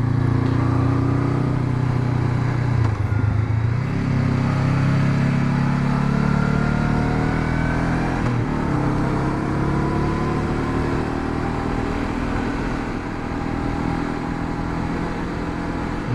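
Honda CB500X's parallel-twin engine running under way. It eases off briefly about three seconds in, then pulls with a rising pitch, and eases again near the middle before running steadily on.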